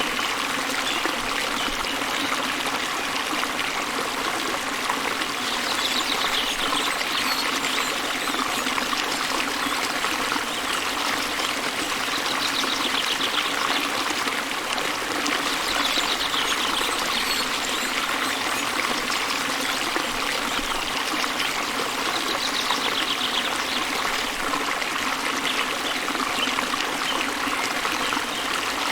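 Steady rushing and trickling of a small waterfall pouring into a calm river. A bird's short, rapid trill rises above the water four times, every few seconds.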